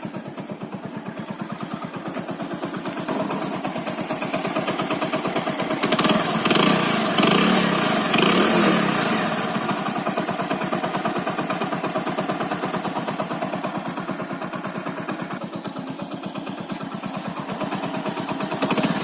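Motorcycle single-cylinder engine running with a freshly fitted new cylinder block and piston. It is revved up about six seconds in and eases back by about ten seconds. The earlier piston knock from a loose piston in a worn block is gone: the engine now sounds right.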